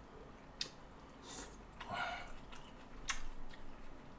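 A person chewing a mouthful of food, faint, with a few soft clicks and smacks from the mouth.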